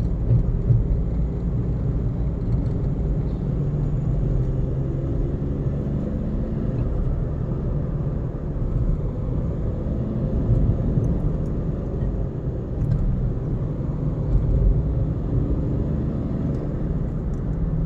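A car driving at road speed: a steady low rumble of engine and tyre noise, with the engine note rising and falling a little.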